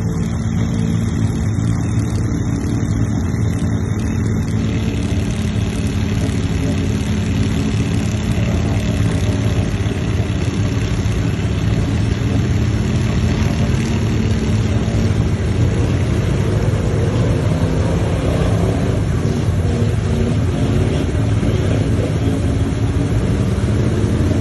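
An off-road vehicle's engine running steadily and loudly, with a continuous low engine note that holds without pause.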